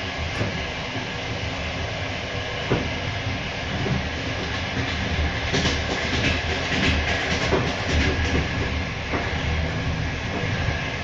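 Passenger train carriage running on the rails, heard from inside: a steady rolling rumble with the clicks and clatter of wheels over rail joints, thickest in the middle of the stretch.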